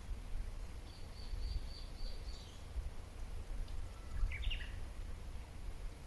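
Wild birds calling: a quick run of about five short high chirps about a second in, then another brief call a few seconds later, over a steady low rumble of outdoor background noise.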